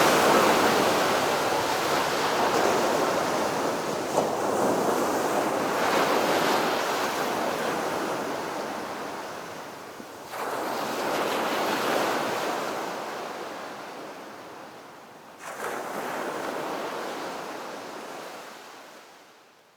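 A surf-like wash of noise swelling and ebbing in three long waves, the later two starting abruptly, then fading out to near silence.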